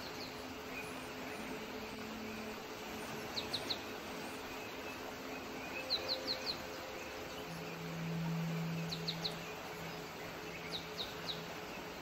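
A bird calling in short bursts of three or four quick, high chirps every few seconds, over the steady rush of flowing river water. A low hum swells briefly about two-thirds of the way through.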